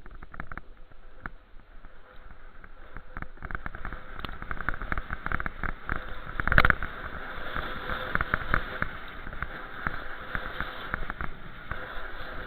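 Rushing noise and frequent small clicks and rattles, as from a camera riding along on a moving bicycle, with one loud knock about six and a half seconds in.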